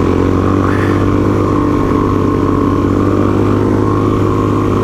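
Motorcycle engine running at a steady speed while being ridden off-road, heard from the rider's own bike.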